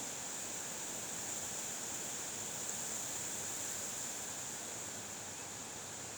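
Steady, even hiss with no distinct events, strongest in the high treble.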